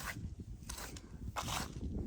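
Three short scrapes, about two-thirds of a second apart, over a steady low rumble.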